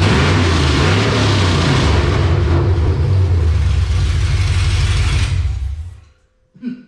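Chevrolet 6.0-litre V8 running loud through long-tube headers and a catless dual exhaust, with a deep steady exhaust note. It fades away about five and a half seconds in, and a short separate sound follows near the end.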